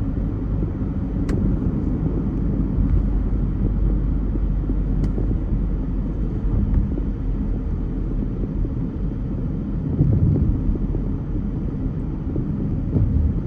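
Steady low rumble of a car driving in city traffic, engine and tyre noise, with a louder low surge about ten seconds in.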